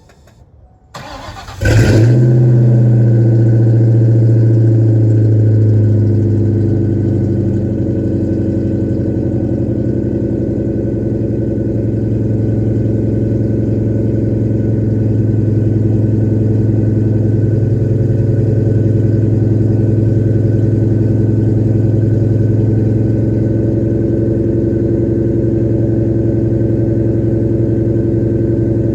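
Cold start of a 1996 Ford Mustang GT's 4.6-litre two-valve V8: the starter cranks briefly about a second in, the engine catches with a loud flare, then settles into a steady fast cold idle that eases down a little a few seconds later. The car has sat unstarted for about a week in near-freezing weather.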